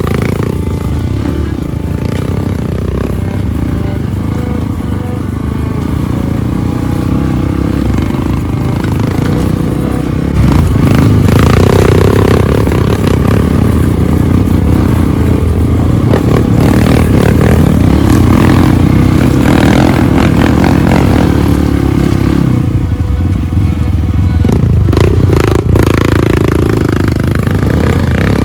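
Trail motorcycle engine running as the bike is ridden off-road, getting louder about ten seconds in.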